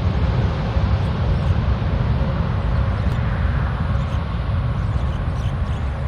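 Jet airliner engine noise: a steady, loud rumble and hiss, heaviest in the low end, with a faint steady whine.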